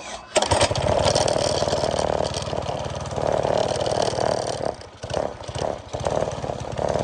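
Minibike engine fitted with a 265 hot cam and 22-pound valve springs starting up: it catches about half a second in and runs steadily, its level dipping briefly about five seconds in before picking up again.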